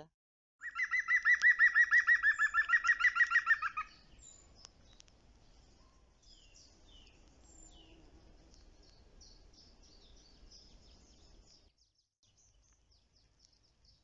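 A bird singing a loud, fast trill of evenly repeated notes, about eight a second, lasting some three seconds and stopping abruptly, followed by faint high chirps from other birds.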